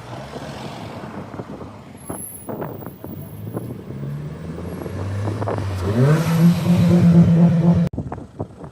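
Car engine revving up, rising in pitch about five seconds in, then holding a loud steady note for about two seconds before it stops suddenly.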